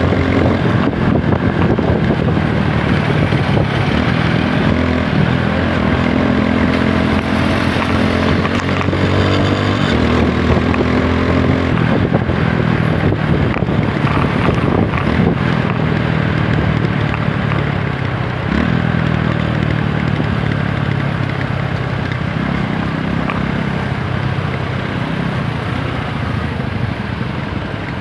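TVS Apache 160 4V's single-cylinder engine running under way, its note rising as it revs up several seconds in and shifting again later, over steady wind rush on the microphone.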